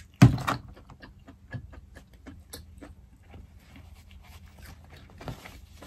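Close-miked eating: wet mouth smacks and soft chewing clicks from a mouthful of lobster meat, with one loud smack just after the start. Near the end, a paper napkin rubs across the mouth with a soft hiss.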